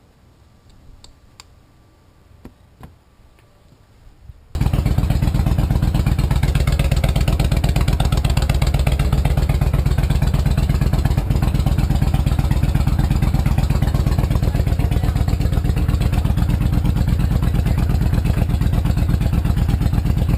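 A few faint clicks, then about four and a half seconds in a 2007 Honda VTX 1300C's V-twin engine is suddenly heard, running steadily at idle with a closely spaced, even pulse.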